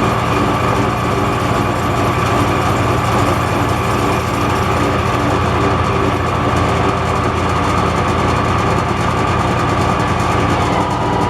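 Metal lathe running steadily while turning the outside diameter of a sleeve, with a constant whine from the spindle drive. Near the very end the whine begins to drop in pitch as the machine slows.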